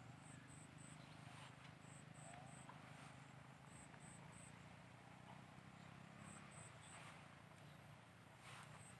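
Near silence: faint outdoor ambience with a low steady hum and faint high-pitched chirps in groups of two or three, repeating every second or two.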